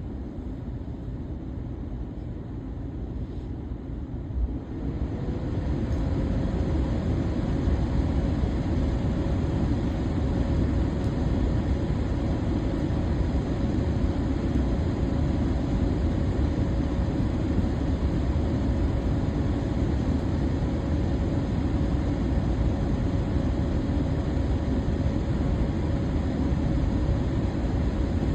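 Electric fan running with a steady rush of air. About five seconds in it is turned up to a higher speed: it gets louder, and its motor hum rises in pitch and then holds steady.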